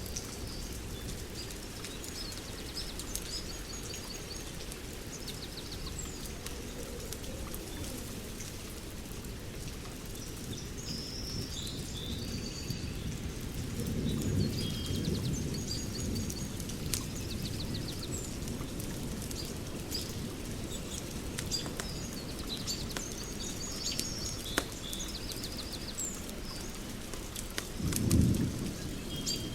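Outdoor fire crackling with many small pops, while birds chirp and trill. A low rumble swells about halfway through and again briefly near the end.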